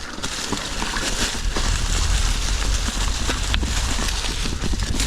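Mountain bike descending a rough, leaf-covered rocky trail: tyres rolling and crunching over the ground, with the bike rattling and knocking over rocks and wind rumbling on the helmet camera's microphone.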